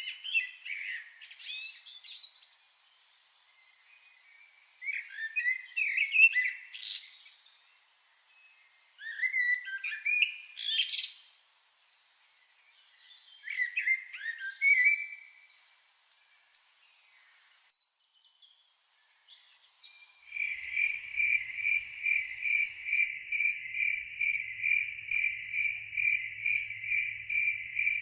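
A songbird singing short, varied phrases every few seconds. About twenty seconds in, an insect's steady pulsing chirp, about two pulses a second, takes over.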